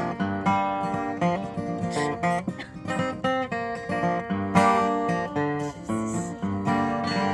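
Acoustic guitar strummed in an instrumental passage between sung verses, with no voice.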